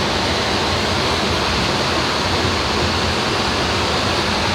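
Steady, unchanging rushing noise, loud and even, with no distinct knocks or tones in it.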